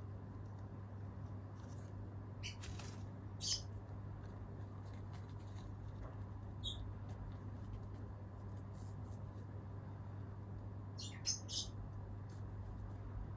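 Cockatiel giving a few short, high chirps, two or three clustered about three seconds in, one near seven seconds and a quick pair around eleven seconds, over a low steady hum.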